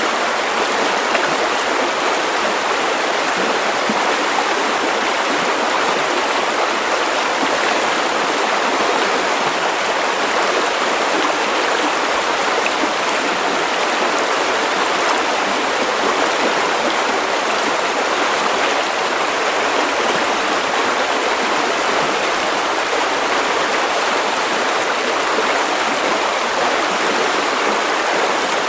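River water running over stones, a steady rushing and babbling flow.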